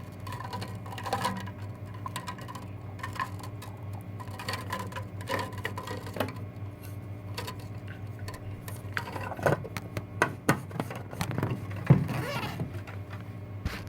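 Scattered light clicks and taps of small objects being handled, over a steady low hum; a few sharper knocks come near the end.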